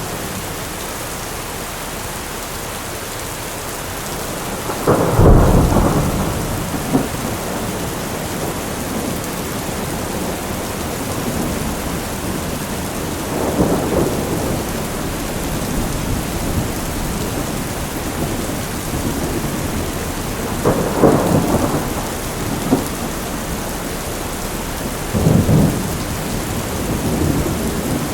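Heavy rain falling steadily through a thunderstorm, with thunder rumbling four times, the loudest peal about five seconds in.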